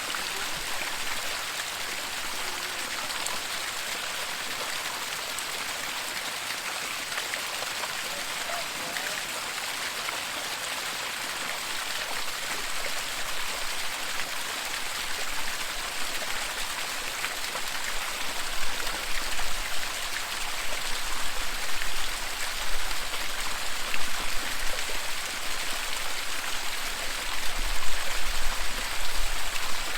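Waterfall water rushing and splashing steadily. From a little past halfway, an uneven low rumble joins and the sound grows louder and more jagged.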